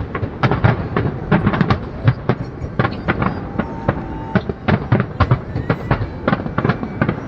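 A rapid, irregular barrage of fireworks bursts, many loud bangs and cracks in quick succession.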